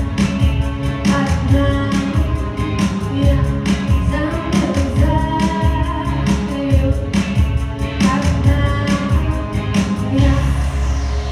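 A woman singing a pop song over a backing track with a steady beat.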